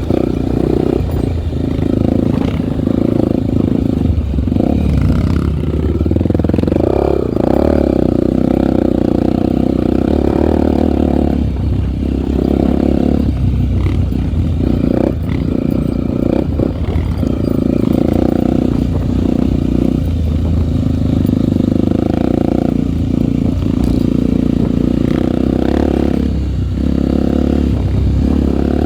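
Honda trail motorcycle's single-cylinder four-stroke engine running under way, its note dipping briefly every few seconds as the throttle is eased and opened again.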